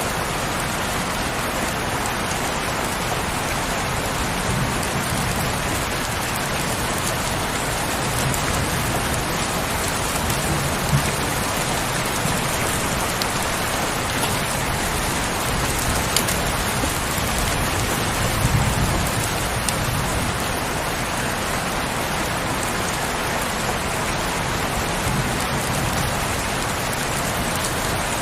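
Heavy rain falling steadily, a dense even hiss with now and then a sharper drop striking close by.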